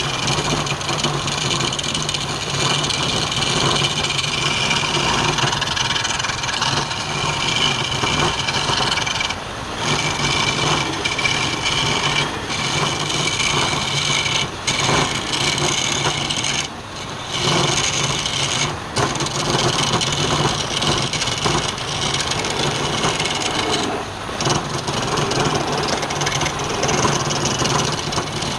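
Wood lathe running with a steady motor hum while the spinning wood is worked, a dense rasping noise that drops out briefly several times and then resumes.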